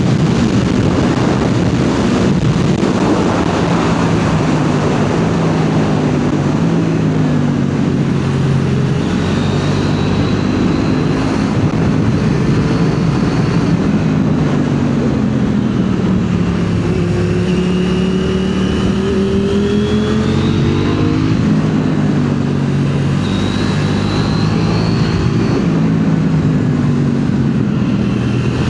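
KTM motorcycle engine under hard acceleration on a race track, its pitch climbing and then dropping over and over as it shifts up and down through the gears, over a dense steady rush of noise.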